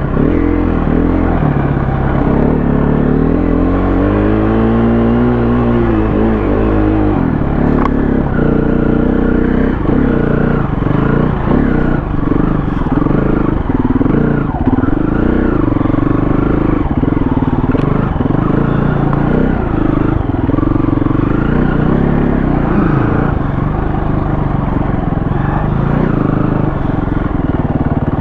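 KTM 350 dirt bike's single-cylinder four-stroke engine under constant throttle changes on a trail ride. Its pitch climbs over the first few seconds, drops away, then keeps rising and falling as the rider works the throttle.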